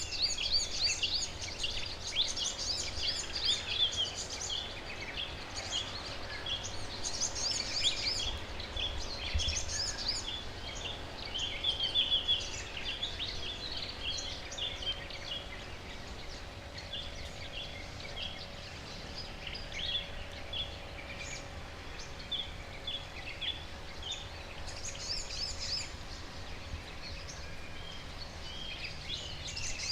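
Several wild birds chirping and calling together in a garden, many short, high notes overlapping, busiest in the first half and again near the end. A steady low rumble runs underneath.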